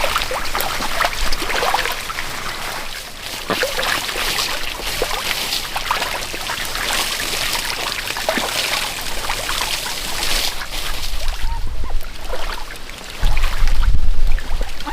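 Water trickling and splashing, with many small clicks and ticks through it. A loud low rumble comes in near the end.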